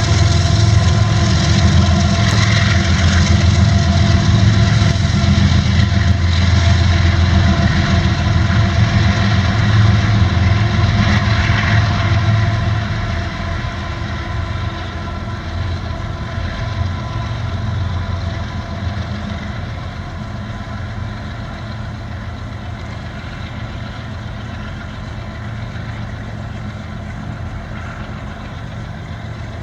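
CSX freight train rumbling by with a steady engine hum, loud at first, then dropping off about twelve seconds in and carrying on quieter and steady.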